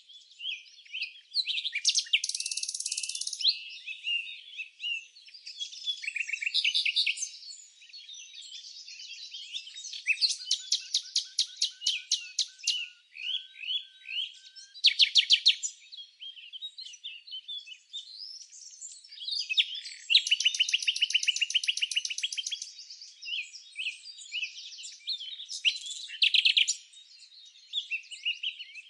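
Songbirds chirping and singing in overlapping calls: quick high chirps and pitch sweeps, with rapid trills of repeated notes, the loudest starting about ten seconds in and again about twenty seconds in.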